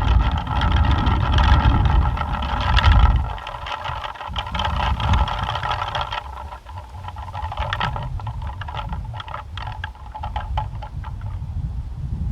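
Plastic pinwheel spinning in the wind with a steady whirring rattle, weakening about halfway through and dying away near the end as the gust drops. Wind rumbles on the microphone, strongest in the first few seconds.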